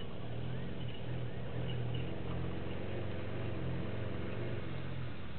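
A motor vehicle's engine idling, a steady low hum that wavers slightly in pitch, with faint high chirps scattered above it.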